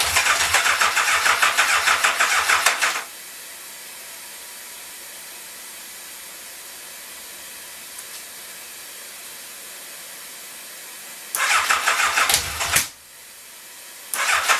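Yamaha FJ inline-four motorcycle engine being cranked on its electric starter without firing, in pulsing bursts: a long crank that stops about 3 seconds in, then after a pause a short crank and another starting just before the end. The starter clutch doesn't sound happy, and the battery is going flat.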